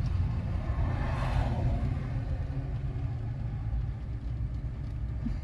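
Steady low rumble of a parked vehicle's engine idling, heard from inside the cabin, with a short swell of hiss about a second in.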